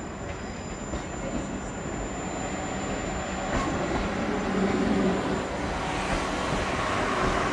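A train moving through the station, a continuous rumble that grows louder over the first five seconds and then holds.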